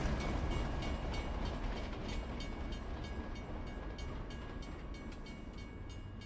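Train running with a low rumble and regular clicking of the wheels over the rail joints, slowly fading away.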